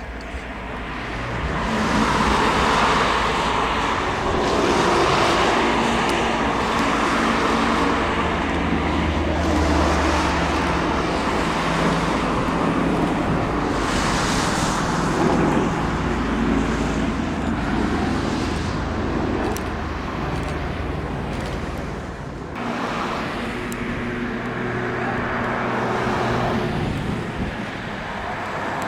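Aircraft engine noise running steadily, with a few low steady tones, easing briefly about two-thirds of the way through.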